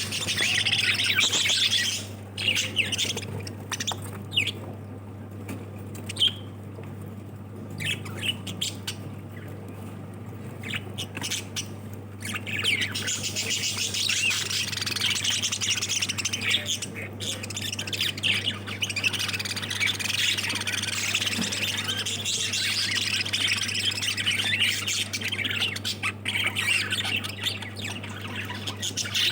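A flock of lovebirds chattering with rapid chirps and squawks, thinning out for a while before the chatter builds up again.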